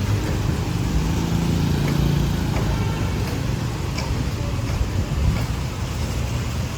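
Road traffic: a steady low rumble of motor vehicle engines running and passing, with one engine's hum standing out from about one to two and a half seconds in.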